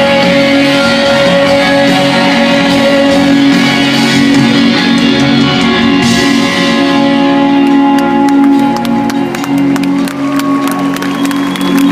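A live rock band playing, with electric guitar to the fore. About halfway the full, bright band sound thins to a held chord, and scattered clapping from the crowd comes in over it.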